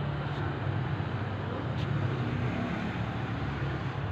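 Steady low rumble of passing road traffic, with a couple of faint ticks.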